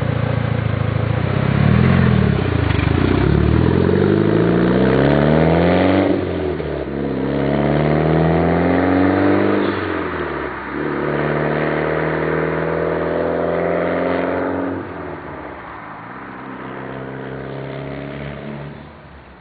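Mitsubishi Lancer Evolution VIII's turbocharged four-cylinder, fitted with a turbo-back exhaust, pulling through the gears. Its note climbs in pitch and drops at shifts about 6 and 10 seconds in, then holds steadier and quieter before falling away near the end.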